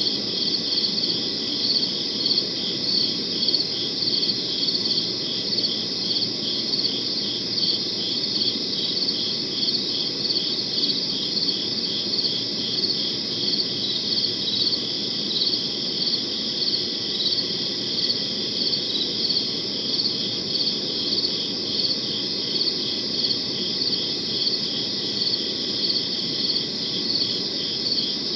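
Crickets chirping in a steady chorus of short, evenly repeated high pulses, over a low steady background noise.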